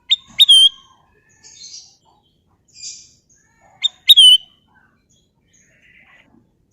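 Kutilang emas (a bulbul) calling: two short, loud whistled phrases about three and a half seconds apart, each a quick pair of sharp high notes ending in a curving note. Faint chirps come in between.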